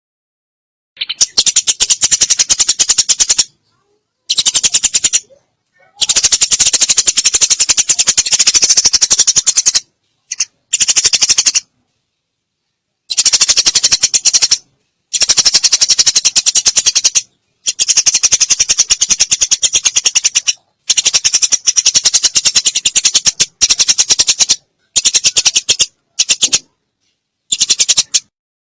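Eurasian tree sparrows giving fast, rattling chatter of sharp high notes in about a dozen bursts of up to four seconds, separated by clean silences. It is the agitated fighting chatter kept as a training recording for cage birds.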